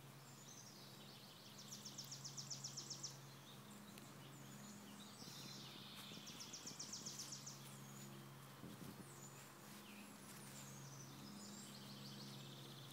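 Faint outdoor ambience: a small songbird sings a high, fast trill of about ten evenly spaced notes a second, twice, over a faint steady low hum.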